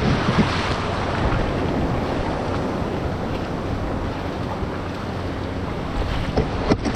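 Ocean surf washing on the beach, a steady rush, with wind buffeting the microphone.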